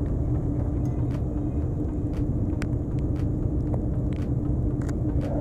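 Steady low rumble with a constant hum, and scattered light clicks.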